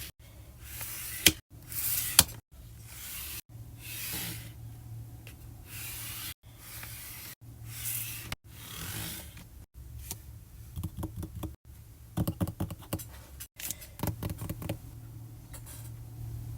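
Close-up paper and sticker handling: short bursts of crisp rustling and peeling, broken by abrupt cuts, then runs of quick light clicks and taps in the second half, over a steady low hum.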